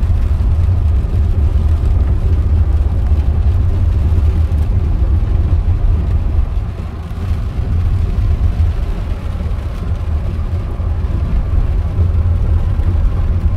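Steady low rumble of a car driving, road and engine noise heard from inside the cabin, easing off briefly about halfway through.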